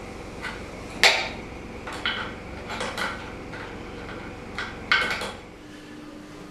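Metal hand tools clinking and knocking against the Jaguar E-type engine's cam gears as the lock wire is cut and the cam gear bolts are undone. A scattering of sharp metallic clinks, the loudest about a second in, with a quick cluster of clinks near five seconds.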